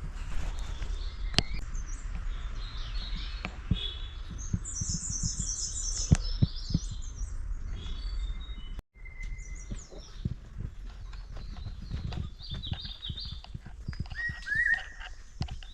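Birds chirping and calling in a forest, in quick repeated high phrases, over a steady low rumble with scattered short clicks. The sound cuts out briefly about nine seconds in.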